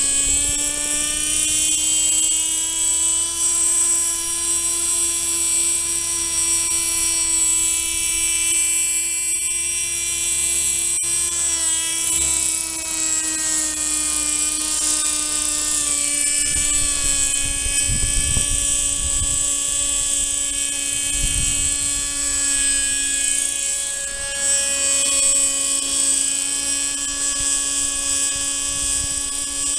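The OS 32FH two-stroke glow engine of a radio-controlled model helicopter, running with a high, steady buzz during engine tuning. Its pitch rises a little in the first seconds and eases down slightly around the middle. Bursts of low rumble come about two-thirds of the way through.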